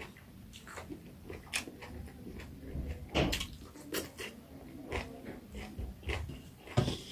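A person chewing and eating pork curry close to the microphone, with irregular short mouth clicks and smacks.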